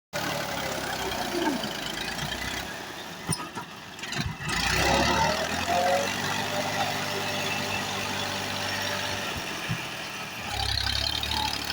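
Vehicle engine running steadily, louder for a while from about four and a half seconds in.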